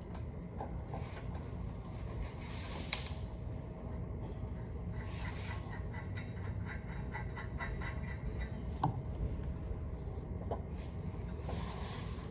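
Hand work on a truck's air-tank bracket: rubbing and scraping of parts being handled, with scattered small clicks and a run of quick, even ticks in the middle of the stretch.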